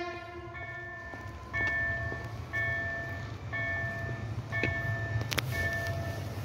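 Electric passenger train approaching with a steady low rumble. An electronic bell-like warning tone chimes about once a second throughout. The tail of a horn blast fades out in the first second, and a couple of sharp clicks come near the end.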